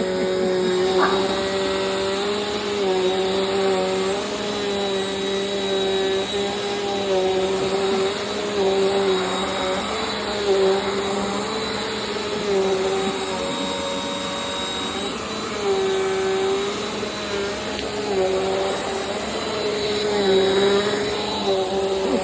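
Vacuum cleaner running steadily, a motor hum with a thin high whine, its pitch dipping briefly and recovering every second or two as the load on it changes.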